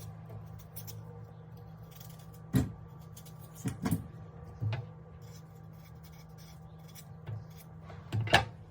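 Kitchenware being handled: several short knocks and clinks, a pair close together a few seconds in and another near the end, over a steady low hum.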